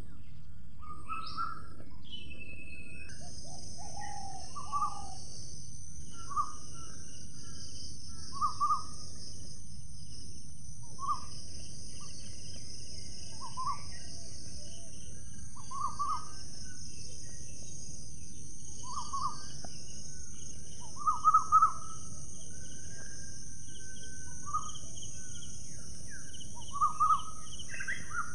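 A bird calling outdoors, short single notes repeated every couple of seconds, a few louder near the middle and end. A steady high-pitched drone comes in about three seconds in, over constant background noise.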